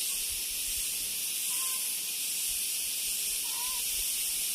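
A steady, high-pitched shrill chorus of many insects (bīṇḍā, cicadas or crickets) calling together, with two faint short chirps about one and a half and three and a half seconds in.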